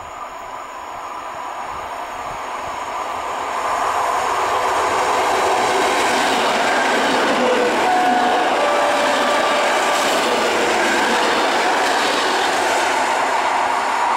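Electric multiple unit passenger train approaching and passing close by. The rolling noise of its wheels on the rails swells over the first four seconds, then stays loud and steady, with a few brief whining tones in the middle.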